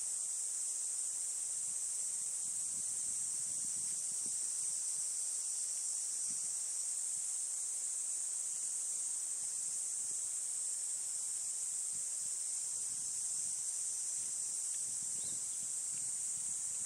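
A steady, unbroken high-pitched chorus of insects, with faint rustling and light knocks underneath.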